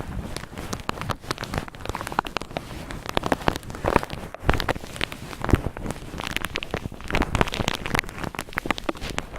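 Cotton ball rubbed roughly, giving a continuous dense scratchy crackle full of sharp little clicks.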